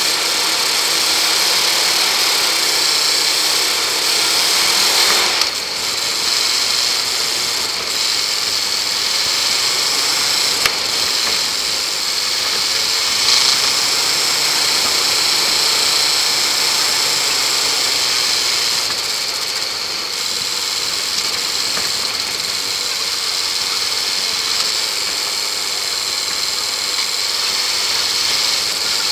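Land Rover engine running as it drives slowly along a rough track, heard from a bonnet-mounted camera; its pitch wavers as the revs change. A steady hiss sits over it.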